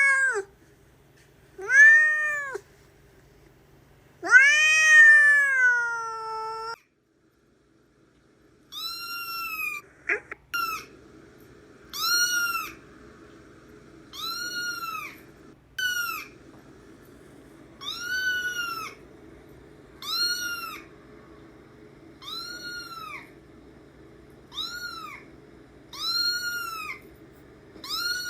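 Domestic cat meowing: three meows, the third long and drawn out, then after a brief gap a higher-pitched cat meowing over and over, about one short meow every two seconds.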